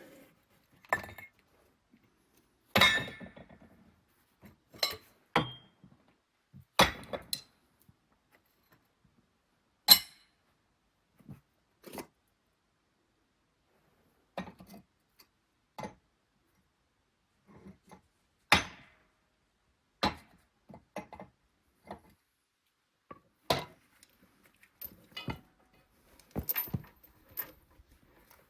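Steel parts and chain clanking and clinking as they are handled and set down. The sharp knocks come one at a time at uneven intervals, with quiet gaps between, and the loudest fall about 3, 7, 10 and 18 seconds in.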